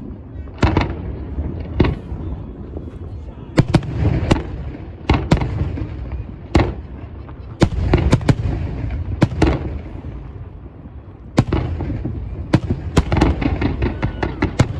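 New Year's Eve fireworks going off, a string of irregular sharp bangs over a constant rumble of distant explosions. The bangs come thicker near the end.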